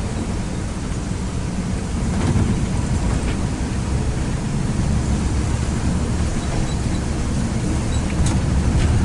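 A moving vehicle's steady low rumble of engine and running noise, with a few faint ticks and no break.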